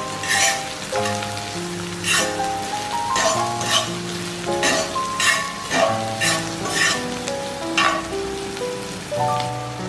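Vegetables sizzling in oil in a cast iron skillet while being stirred with a fork, with short bursts of hiss as they are turned. Background music with sustained notes plays over it.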